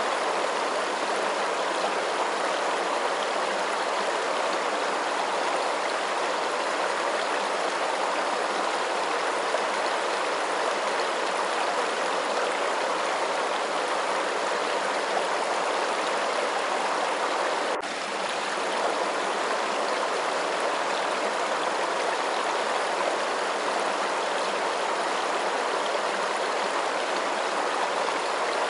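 Steady flowing water, an even unbroken rush, with a momentary dip in level about two-thirds of the way through.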